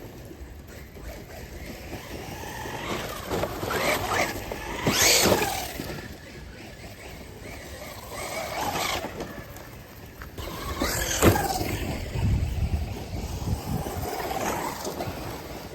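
RC speedboat running on open water, its sound swelling and fading as it passes four times.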